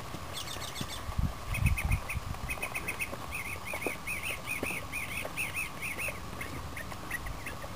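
A bird chirping a fast run of short repeated notes, about five a second, for several seconds from about a second and a half in, thinning to a few scattered chirps near the end. A brief low rumble comes about a second in.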